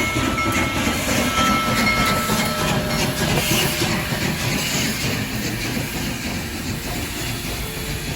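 Train rolling past, a steady rumble with wheels clattering over the rails, easing off slowly in the last few seconds.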